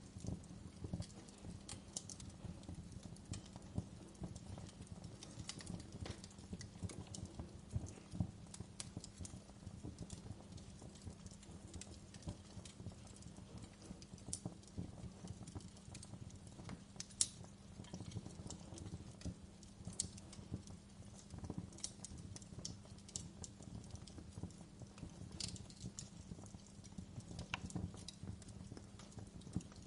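Wood fire burning in a fireplace: a steady low rumble with irregular sharp crackles and pops, a few louder snaps among them.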